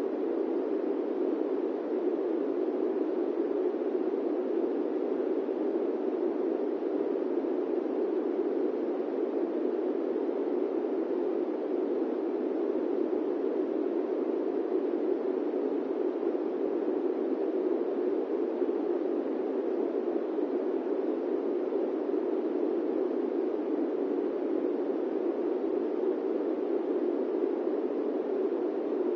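Airplane cabin ambience noise: a steady, low, muffled rushing with no tones, changes or separate events.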